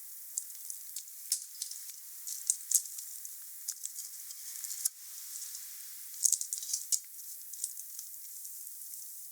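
Wood fire crackling: irregular sharp pops and snaps over a steady hiss, with a run of louder pops about six seconds in.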